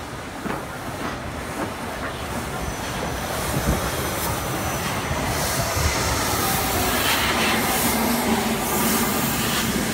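Train running slowly along the rails close beside a steam locomotive on the next track, growing steadily louder, with a hiss building in the second half.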